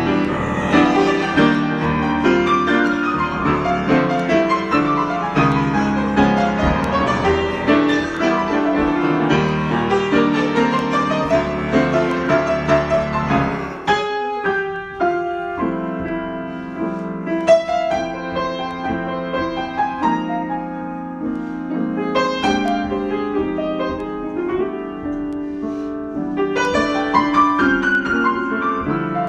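Improvised piano playing. It is full and dense for the first half, then thins to a sparser, more open passage about halfway through.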